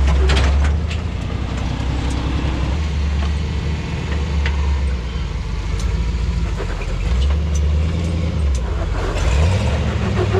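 Vehicle engine running with a low, steady note, revving up and back down a couple of times in the last few seconds, with scattered knocks and clatter over it.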